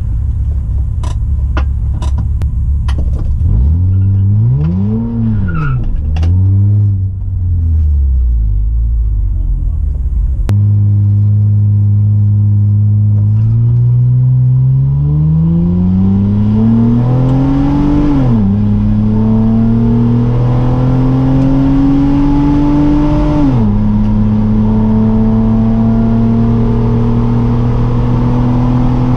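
Honda Odyssey's J35A4 3.5-litre V6, with its exhaust unbolted, at full throttle on a quarter-mile pass, heard from inside the cabin. The engine note climbs steadily, drops suddenly at an automatic upshift about two-thirds of the way through, climbs again, and drops at a second upshift before pulling on to the end. Before that, in the first third, an engine rumbles and is revved up and down twice, with a few sharp clicks.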